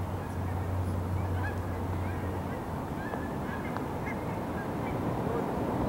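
Scattered short bird calls over steady outdoor background noise, with a low hum that stops about halfway through.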